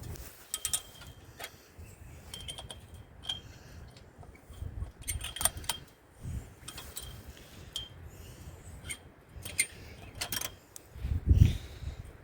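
Scattered light metallic clinks and rattles as the springs and hooks of a steel trampoline frame are handled, with a low rumble that swells briefly near the end.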